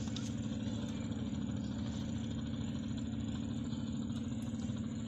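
An engine running steadily at an even pace, a low constant drone with no change in speed.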